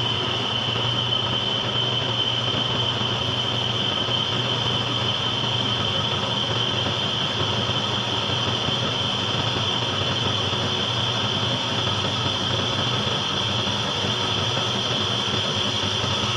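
Machine tool taking a cut in metal with a large-radius carbide insert: a steady running hum with a constant high-pitched whine from the cut.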